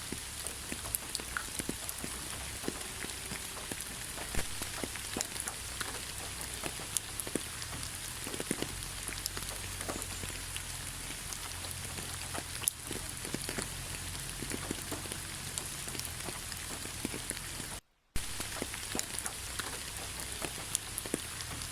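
Steady rain falling on a forest, an even hiss broken by many small drop taps. Just before the end the sound cuts out completely for a fraction of a second, then comes back.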